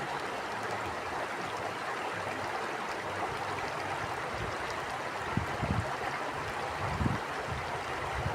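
Stream water flowing and rushing steadily. From about five seconds in, gusts of wind buffet the microphone with low rumbles.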